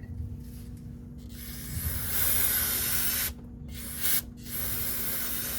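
Aerosol can of brake parts cleaner spraying in three bursts: a long hiss of about two seconds, a brief puff, then another long hiss near the end.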